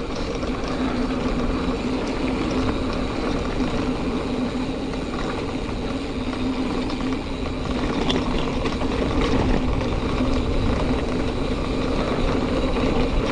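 Giant Fathom 2 29er hardtail mountain bike rolling along a dirt trail: a steady rumble of tyres and rattling over the ground with a constant hum, and a few faint ticks around the middle.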